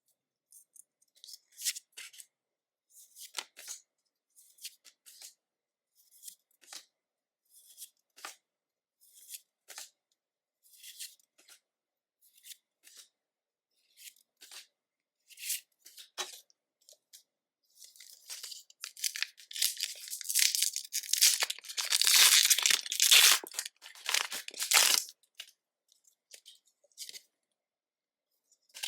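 Soft rustles about once a second as trading cards are handled one at a time. This is followed by a louder stretch of crackling and tearing as a foil Pokémon booster pack wrapper is torn open.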